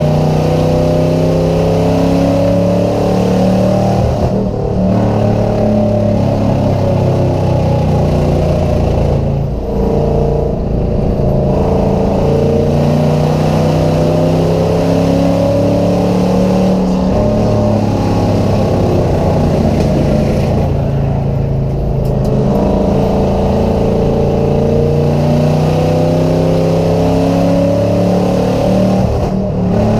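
Race car engine running hard and revving, its pitch rising and falling, with a few brief dips where the throttle eases.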